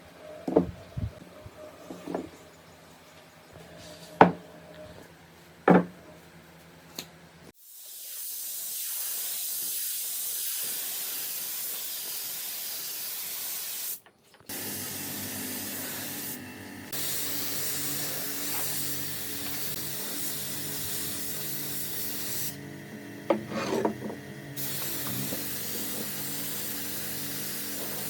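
A few sharp knocks on wood, then from about eight seconds a steady hiss of compressed air from a pneumatic air gun. The hiss stops briefly near the middle and then resumes.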